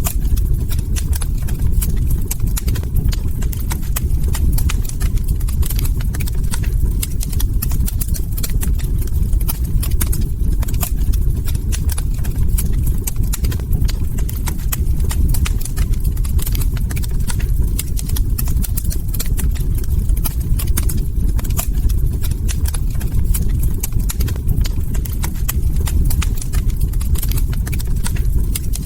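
Log fire burning in a hearth: many small, irregular crackles and pops over a steady low-pitched noise of the burning wood.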